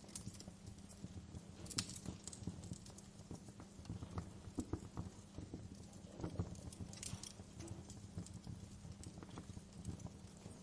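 Wood fire burning in a fireplace, crackling with irregular small snaps and pops over a low steady rumble, with sharper clusters of pops about two seconds in and again about seven seconds in.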